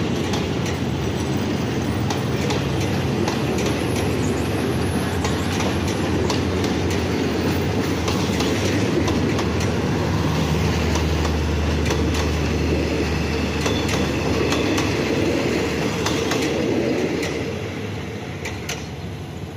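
Passenger coaches of a commuter train rolling past, a steady rumble with wheels clicking over rail joints. The sound dies down near the end as the last coach goes by.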